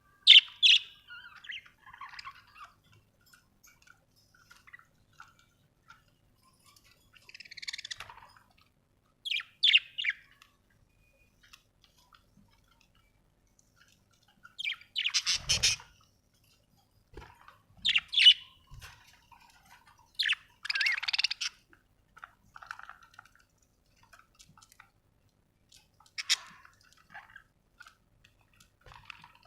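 Budgerigar chirping in short, scattered bursts a few seconds apart, with quiet gaps between.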